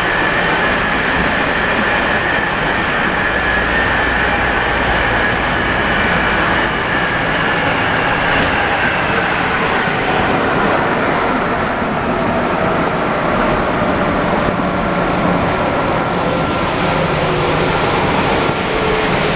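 Alstom NS-74 rubber-tyred metro train running, a steady rolling noise with motor and gear whines that fall slowly in pitch as the train slows.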